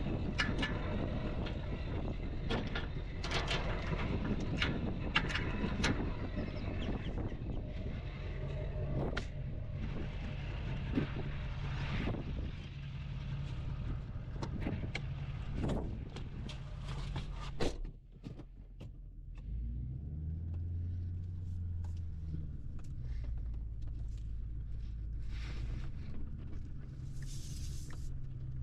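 Tractor engine running as a steady low hum, with many sharp clicks and knocks over it. The sound drops briefly about eighteen seconds in, and a low engine hum comes back a moment later at a changing pitch.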